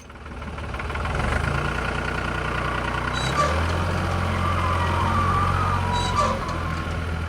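A motor running steadily with a low hum, fading in over the first second and growing fuller about three and a half seconds in.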